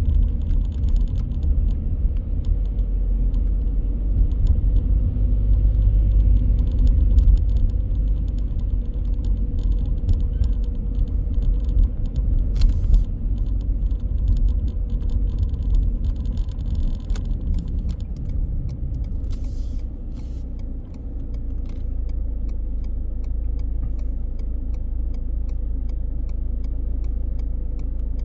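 A car driving on city streets: a steady low rumble of road and engine noise, with a few sharp clicks. The rumble eases a little about three quarters of the way through and then holds steady.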